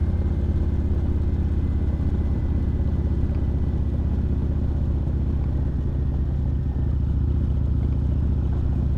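Kawasaki Vulcan Nomad 1600 cruiser's V-twin engine running steadily at low speed while riding along a dirt road.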